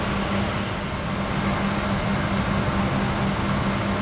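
Steady airliner cabin ventilation noise inside a Boeing 777-200ER before engine start: an even rush of air with a constant low hum underneath.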